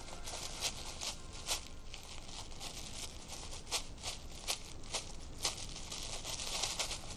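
Dry leaf litter rustling and crackling under an animal moving through it, with irregular sharp cracks over a steady hiss.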